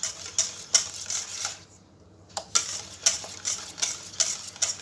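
A utensil stirring thick lemon custard in a saucepan, scraping and knocking against the pan in quick repeated strokes, with a short pause about two seconds in.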